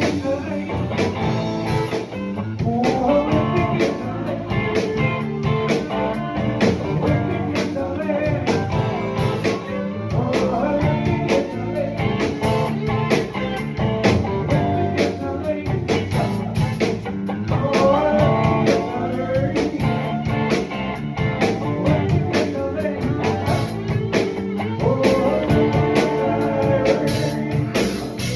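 Rock band playing live with drum kit, bass and electric guitar, and a melodic line of singing or lead guitar over it.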